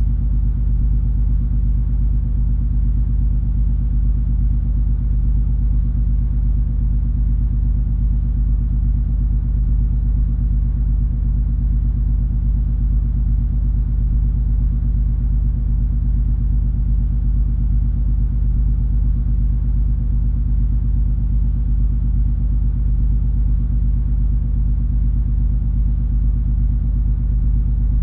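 Steady low drone of the MS Color Magic cruise ferry under way, its engines humming with a deep rumble and a few steady low tones that do not change.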